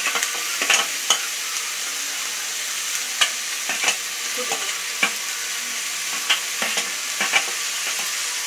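Sliced onions and green chillies frying in ghee in an aluminium pressure cooker: a steady sizzle with scattered sharp pops and clicks.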